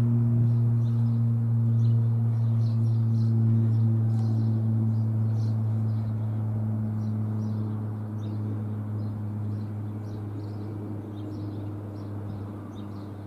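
Airbus A400M Atlas's four eight-bladed turboprops passing high overhead: a deep, steady buzz with a few evenly spaced tones, slowly fading away.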